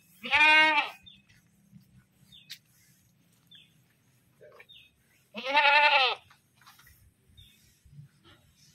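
A goat bleating loudly twice, about five seconds apart. Each call is a single drawn-out 'mbek' of just under a second that rises and then falls in pitch.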